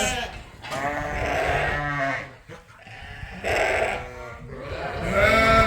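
Sheep (ewes) bleating, about four calls one after another with short gaps, some of them long and wavering.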